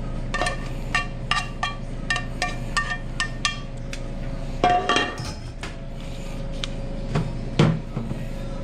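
Kitchen utensils clinking and tapping against bowls and pans: a quick run of about ten sharp ringing clinks, a louder clatter about five seconds in, and one knock near the end, over a steady kitchen hum.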